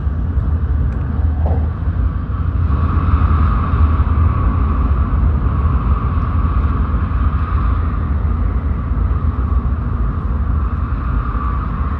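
Cabin noise of a Tokaido Shinkansen train running at speed: a steady deep rumble, joined about three seconds in by a steady higher hum as the train runs into a tunnel.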